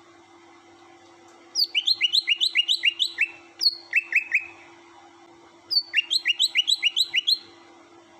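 Cucak hijau (green leafbird) singing: three bursts of quick, repeated rising whistled notes, about six a second, with short pauses between the bursts.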